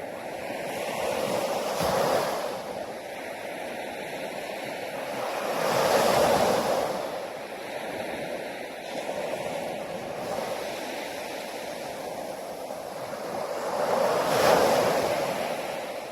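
Waves breaking on a shore: three waves swell and wash in, about two seconds, six seconds and fourteen seconds in, with a steady wash of surf between them.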